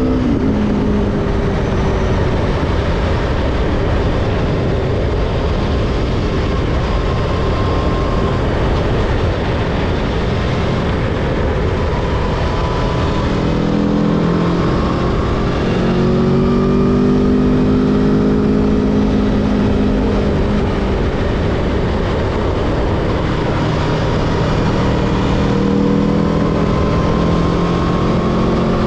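Aprilia Tuono V4's V4 engine heard from the moving motorcycle under a heavy, steady rush of wind. The engine note rises and falls with the throttle, climbing noticeably in the middle and again near the end.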